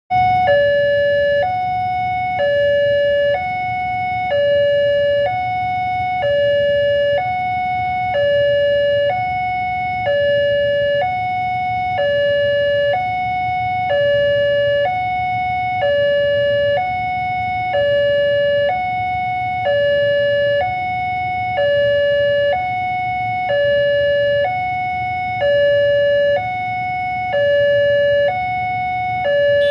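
Railroad level-crossing warning alarm sounding a two-tone signal, alternating between a lower and a higher held note about once a second, over a low steady rumble.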